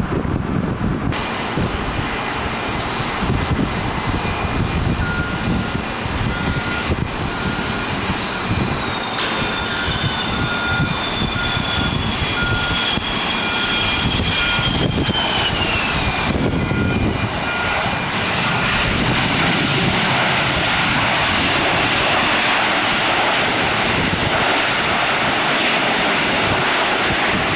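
Airliner engines running at an airport in heavy rain, a high whine dropping in pitch about halfway through over a steady rush of noise that grows broader and louder in the second half. A regular beep sounds about once a second through the middle.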